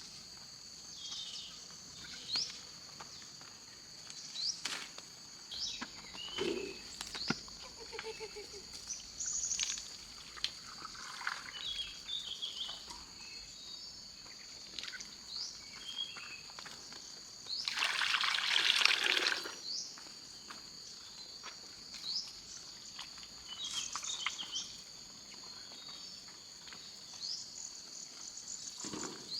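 A steady, high-pitched chorus of insects, with scattered small knocks and chirps. A little past halfway through comes a loud rush of water lasting about two seconds.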